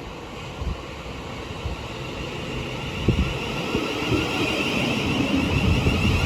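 Class 707 electric multiple unit drawing into the platform, getting steadily louder, with a high whine that strengthens in the second half and a few sharp knocks about halfway through.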